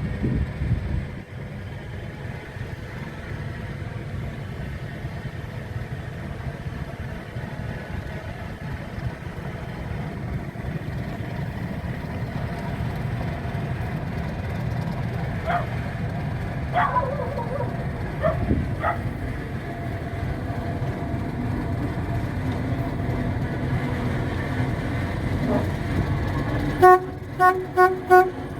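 ALCO RS8 diesel locomotive running with a steady low rumble while switching, with a few short squeals about halfway through. Near the end its horn sounds a rapid run of short toots.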